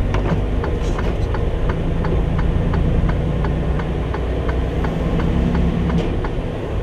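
A truck's turn signal ticking steadily, about three clicks a second, over the low steady rumble of the truck's diesel engine.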